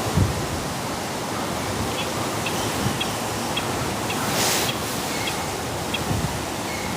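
Steady rushing outdoor background noise, with a low thump at the start, a series of faint short high ticks, and a brief swish about four and a half seconds in.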